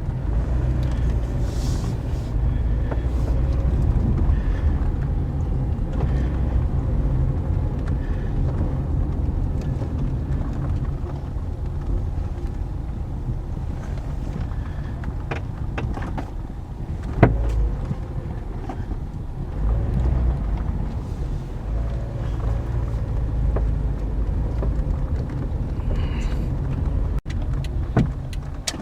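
2009 Toyota Corolla driving, a steady low road-and-engine rumble with intermittent knocks and rattles from the front suspension, one sharper clunk about two-thirds of the way through. The owner takes the noise for a front strut whose top bearing has gone bad and no longer turns.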